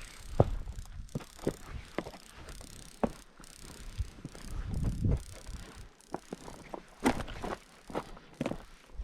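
Footsteps crunching on dry, gritty badlands ground at a walking pace, with a low rumble of wind on the microphone about halfway through.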